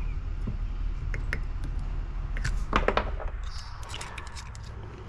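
Low steady rumble that fades over the last second or two, with scattered light clicks and taps of small parts being handled as gaskets are worked out of a pressure-washer pump.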